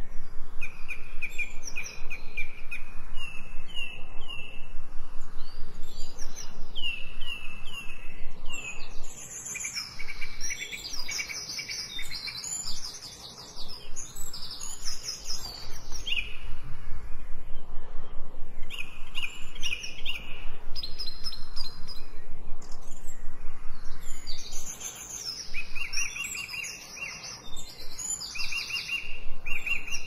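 Songbirds singing and chirping: runs of short repeated notes and quick trills, with a couple of quieter spells between phrases, over a faint steady background hiss.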